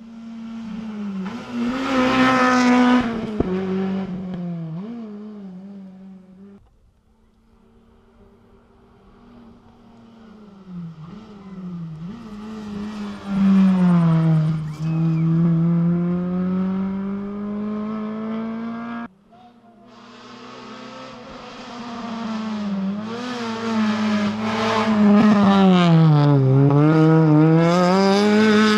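Rally cars at full throttle on a stage, engines revving up and down through gear changes as each car comes past. The sound cuts abruptly twice, about six seconds in and again near nineteen seconds, as a new car takes over.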